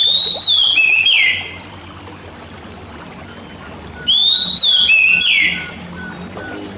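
Oriental magpie-robin song: the same loud whistled phrase twice, about four seconds apart, each a rising then falling whistle ending in a sweeping downslur. A faint series of short repeated notes follows near the end.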